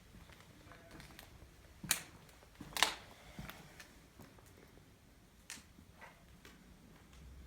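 A few irregular sharp clicks and knocks. The two loudest come about two and three seconds in, with fainter ones later.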